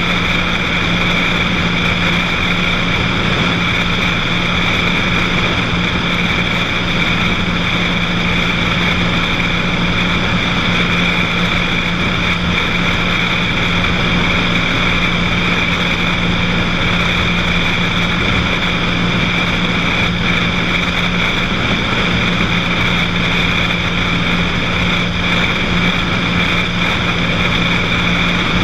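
Cessna 182's single piston engine and propeller running steadily in flight: an unchanging drone with no change in power.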